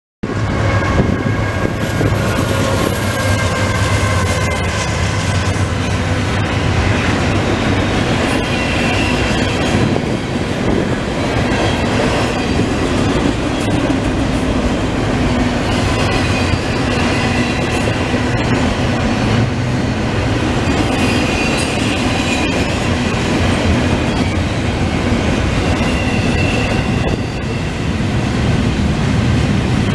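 Norfolk Southern double-stack container train's well cars rolling past: a steady, loud rumble of steel wheels on rail, with a faint high wheel squeal coming and going several times.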